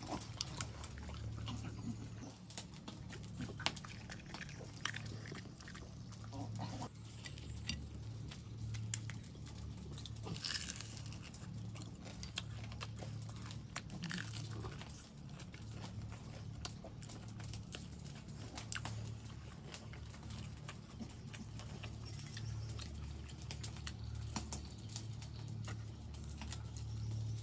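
Crunching and chewing of crumb-coated fried chicken feet: scattered crisp crunches and mouth clicks throughout, over a steady low hum.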